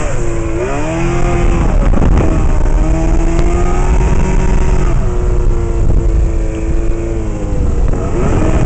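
Mercury 150 outboard on a 17-foot speedboat running under way, with heavy low rumble throughout. The engine's pitch dips and climbs again about a second in, holds fairly steady, then dips and rises again near the end.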